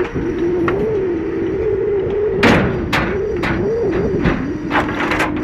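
Scania 164C V8 timber truck driving its loader crane's hydraulics: a steady whine that wavers up and down in pitch as the load changes. About halfway through, a run of sharp knocks begins, logs striking one another and the grapple, six in all.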